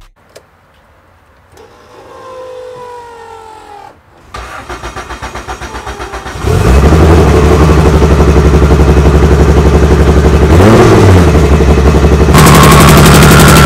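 Turbocharged Honda Civic drag car's four-cylinder engine being started: a few seconds of cranking, then it catches and runs loud with a pulsing idle. There is a brief blip of revs near the two-thirds mark, and it runs louder and steadier near the end.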